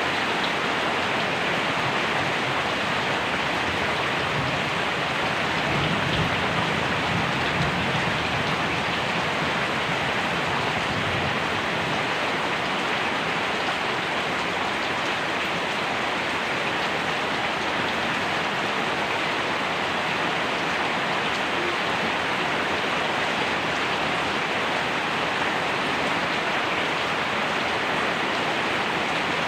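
Steady rain falling, an even hiss of many drops that holds without letup.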